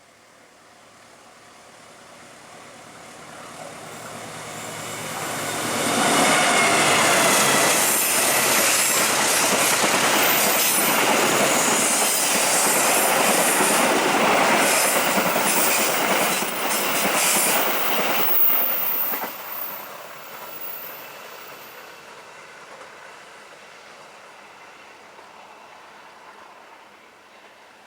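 Ranggajati passenger train approaching, passing close by and fading away. Its wheels clack over the rail joints, with a high-pitched wheel squeal while it is closest. The sound builds for about six seconds, stays loud for about thirteen, then dies down gradually.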